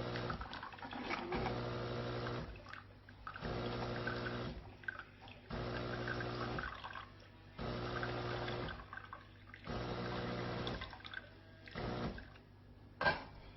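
De'Longhi Eletta Explore espresso machine's pump humming in repeated pulses, each about a second long with short gaps, as it pushes water through. A sharp click comes near the end.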